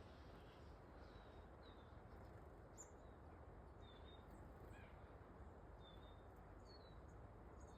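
Faint, short, high chirps of small backyard songbirds, one or two a second, over a steady low background noise.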